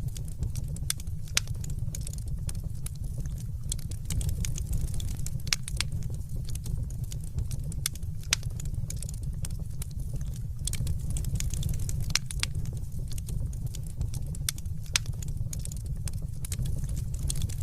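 Fireplace fire burning, with many sharp irregular crackles and pops over a steady low rumble.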